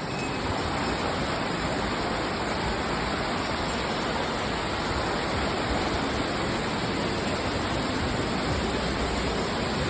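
Shiwagara Falls: the steady, even rush of falling water.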